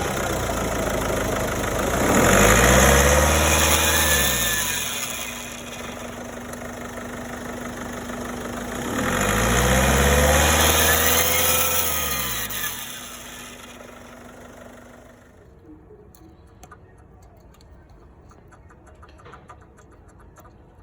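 Mini Cooper engine with a failed turbocharger, running and revved up twice, its pitch rising and falling each time, over a steady tone. It stops about fifteen seconds in, leaving only faint clicks.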